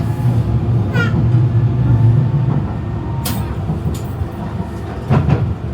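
Docklands Light Railway train running, heard from inside the carriage: a steady low rumble that eases about halfway through. There is a brief high squeak about a second in, and a few light clicks.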